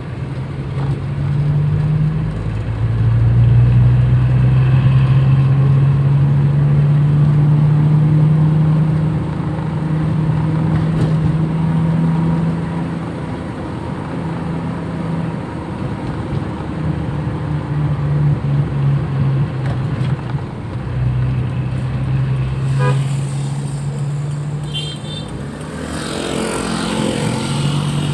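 Toyota Kijang's engine running steadily on the move, its low drone shifting pitch now and then, with a short car horn toot about two thirds of the way through.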